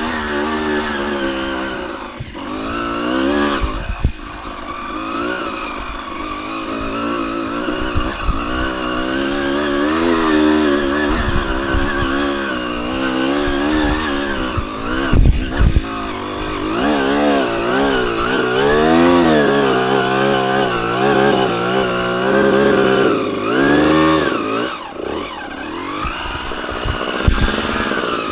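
Dirt bike engine being ridden on a rough trail, its pitch climbing and falling over and over with the throttle. A few sharp knocks cut through, the loudest about fifteen seconds in.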